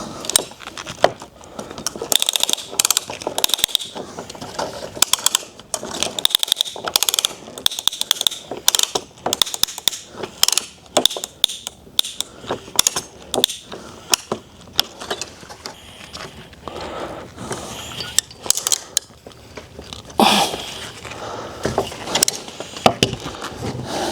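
Hand strapping tensioner being ratcheted to pull binding strap tight: repeated sharp clicks in bursts.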